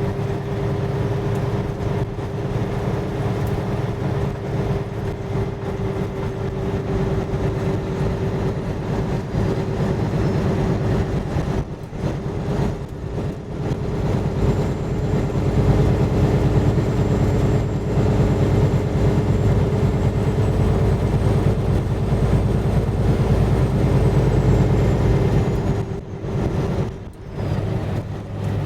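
Semi-truck's diesel engine running with a steady drone. The level dips briefly about twelve seconds in and again near the end.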